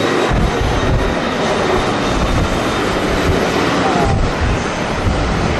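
Jet airliner engines running as a steady roar, with strong gusty wind buffeting the microphone.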